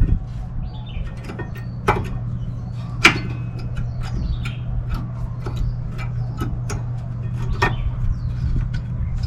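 Light metal clicks and taps of brake pads and pad clips being fitted into a caliper mount, over a steady low hum, with birds chirping now and then.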